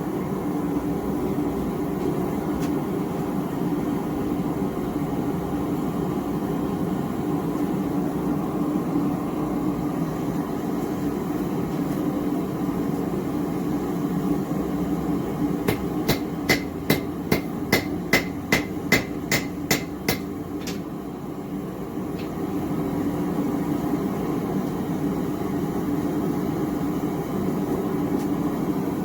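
Gas forge burner running steadily. About halfway through come about a dozen quick hammer blows, roughly three a second, ringing on steel as the bar's excess is cut off over a hardy cutter.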